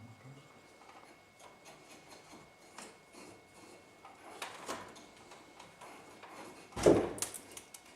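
Scattered light clicks and rubbing from objects being handled, with a louder knock about seven seconds in followed by a few sharp clicks.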